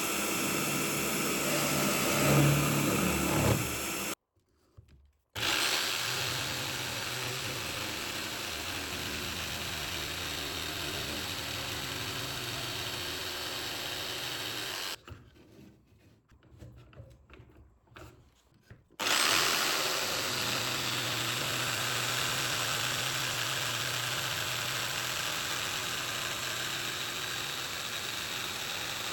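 A power tool running steadily on wood, with a low hum under a hiss; it cuts out to near silence twice, briefly about four seconds in and for about four seconds in the middle.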